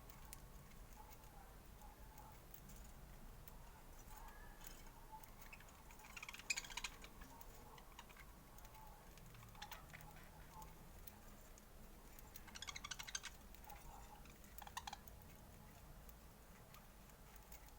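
Budgerigars chattering faintly, with soft short chirps and two brief bursts of rapid clicking trills about six and thirteen seconds in.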